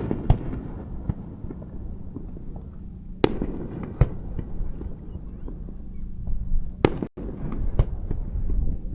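Aerial fireworks shells bursting: a sharp bang right at the start and another just after, two more about three and four seconds in, and another near seven seconds, with smaller crackles between them over a low continuous rumble.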